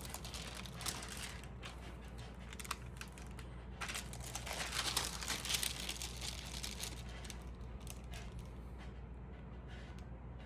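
Faint rustling and crinkling of stamp album pages being handled, with small clicks, busiest about four to six seconds in.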